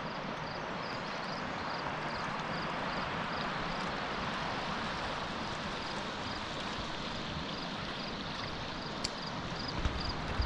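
Steady rush of river water, with a faint high chirp repeating about two or three times a second.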